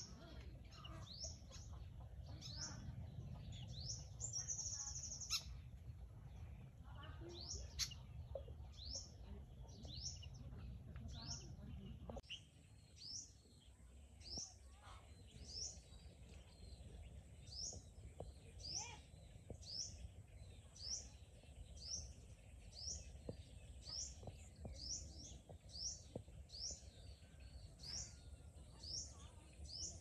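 A bird calling over and over: short, sharp, high chirps, about one to two a second, over a faint low rumble of background noise that drops away about twelve seconds in.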